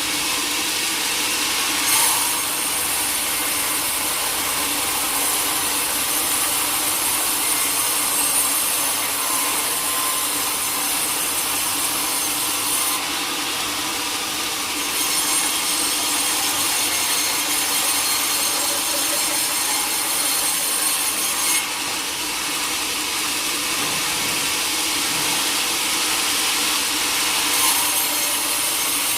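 Sawmill blade cutting steadily through a teak log: a continuous hissing cut whose high edge eases off twice and returns.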